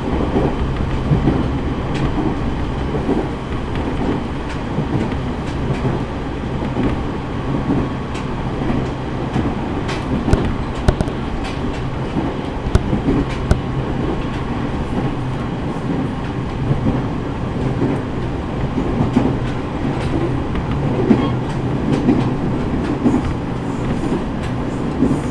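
E501 series electric multiple unit running at speed, heard from inside a passenger car: a steady rumble of the wheels on the track with irregular clicks as they pass over rail joints, more of them about halfway through.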